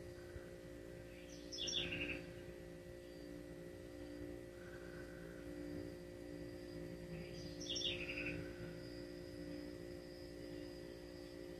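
A bird chirping briefly twice, about two seconds in and again about eight seconds in, over a faint steady hum.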